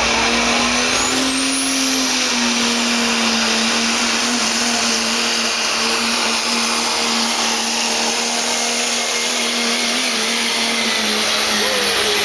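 Diesel pickup truck pulling under full load, its engine running steadily. About a second in, a high turbocharger whistle rises and then holds steady.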